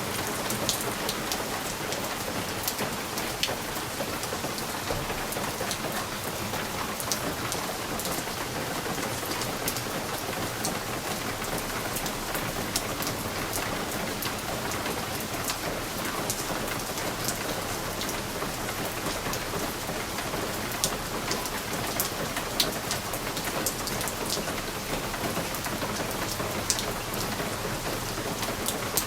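Steady rain against a window pane, an even hiss with frequent sharp ticks of single drops striking the glass.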